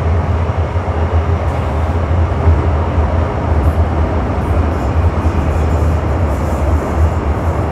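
MTR Metro-Cammell M-Train electric multiple unit (GEC GTO chopper control) heard from on board, running at speed through the Island Line tunnel. A steady, loud rumble of wheels and traction equipment, heaviest in the low end.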